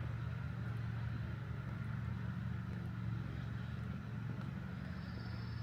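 Steady low motor hum, unchanged throughout, with a faint high tone coming in near the end.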